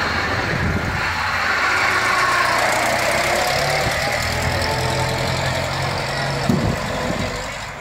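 A 1927 Ford Model T's four-cylinder engine running as the car pulls away and drives off, with a whining note that falls in pitch over the first few seconds. The sound fades near the end as the car moves away.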